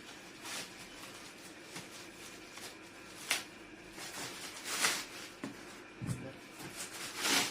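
A parcel's packaging being handled and opened, with several short rustling and scraping noises a second or two apart.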